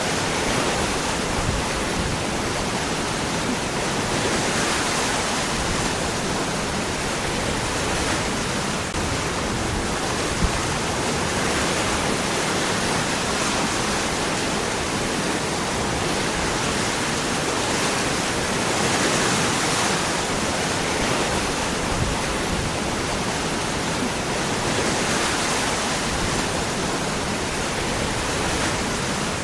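Waterfall: water falling and splashing among rocks, a steady dense rush with no pauses.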